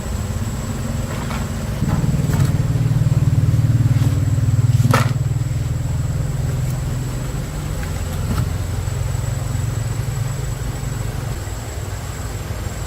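A motor running with a steady low hum. It grows louder about two seconds in and eases off again after about five seconds, with a few sharp clicks or knocks over it.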